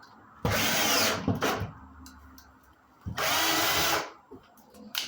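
Power drill driving drywall screws through sheetrock into wood backing: two runs of about a second each, the motor whining up in pitch as each starts.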